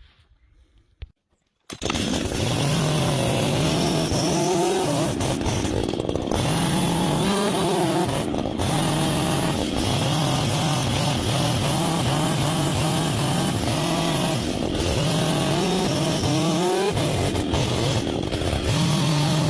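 Gas chainsaw cutting into a log, roughing out the sides of a tenon; it comes in abruptly about two seconds in, and its engine pitch keeps dipping and recovering as the chain bites into the wood.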